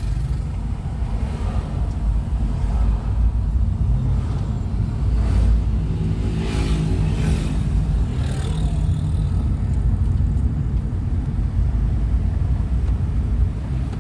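Motor vehicle on the move: a steady low engine and road rumble, with an engine note that stands out and climbs about six to eight seconds in.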